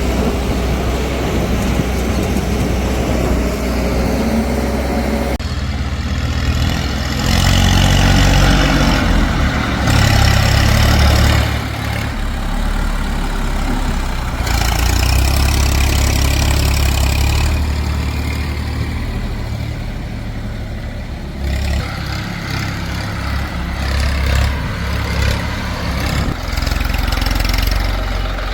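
Heavy diesel engines of earth-moving and farm machinery, running under load and revving up and down. The sound changes abruptly several times.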